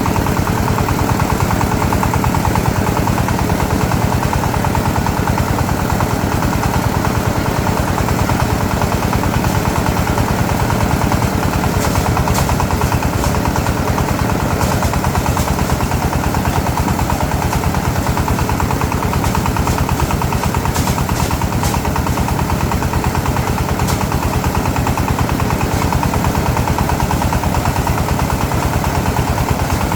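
A small engine running steadily at constant speed with a rapid, even firing pulse, with scattered light clicks and rattles above it for a stretch in the middle.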